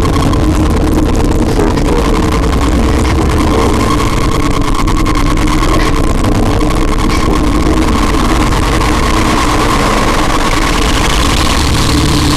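Power electronics industrial noise music: a loud, dense wall of distorted droning noise with a deep grinding rumble and steady held tones, engine-like in texture. A higher whine comes in near the end.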